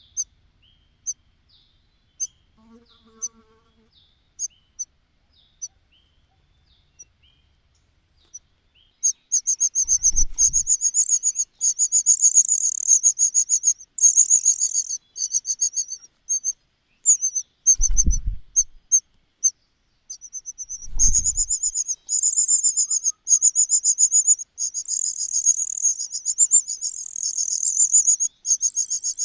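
Nestlings giving thin, high single chirps about once a second, then from about nine seconds in a loud, rapid, high-pitched chorus of begging calls, typical of chicks clamouring for food as a parent arrives at the nest. A few dull low thumps come through the begging.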